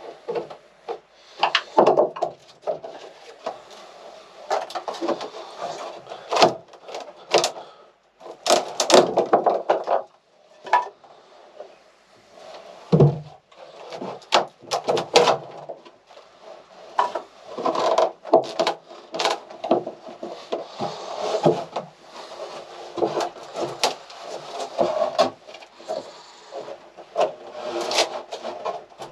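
Irregular knocking, scraping and creaking of wooden interior fittings being pried and pulled out of a small sailboat's cabin by hand, with a heavier thump about 13 seconds in.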